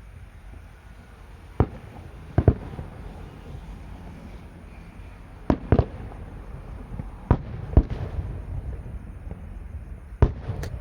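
Fireworks going off: sharp bangs at irregular intervals, several coming in quick pairs about half a second apart, over a steady low rumble.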